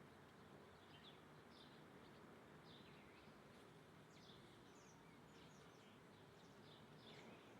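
Small birds chirping faintly: many short, high chirps scattered throughout, over a steady low background hiss.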